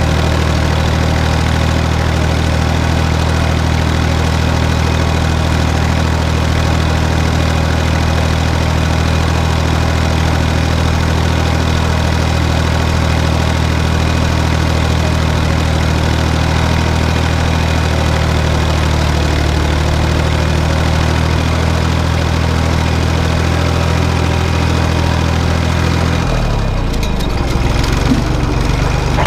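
Tractor diesel engine running steadily while pulling a cultivator through a field. Its note shifts and becomes uneven near the end.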